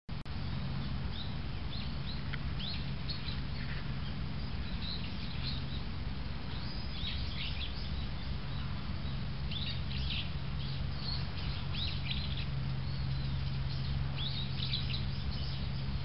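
Wild songbirds calling in short, high chirps, scattered throughout and sometimes several in quick clusters, over a steady low hum.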